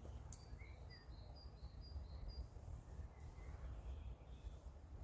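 Faint outdoor ambience: a small bird chirps in a quick run of short, high notes starting about a second in, with a few fainter calls later, over a steady low rumble.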